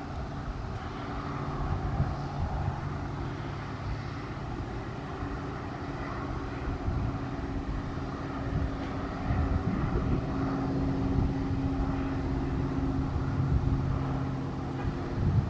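A steady engine drone that shifts slightly in pitch partway through, over a low rumble of wind on the microphone.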